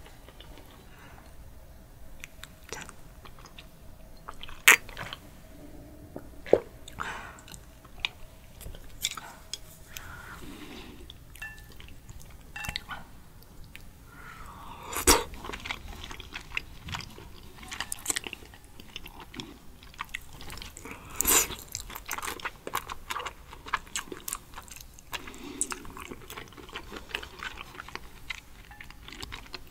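Close-miked eating sounds of raw sea urchin roe and sweet shrimp: soft, wet chewing and mouth noises, with scattered sharp clicks. The loudest clicks come about five seconds in, near the middle and about two-thirds of the way through.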